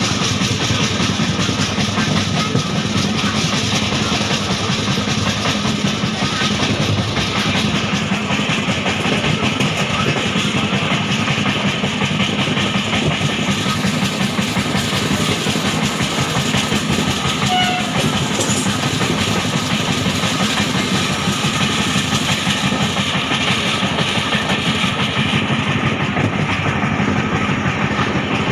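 Passenger train of Indian Railways running along the track: a steady loud rumble and rattle of the coaches' wheels on the rails.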